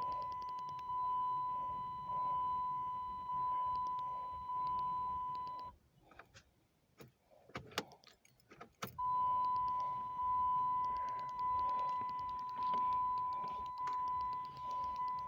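The car's dashboard warning chime dinging about once a second, each ding fading before the next. It breaks off for about three seconds, with a few sharp clicks and key rattles, then starts dinging again.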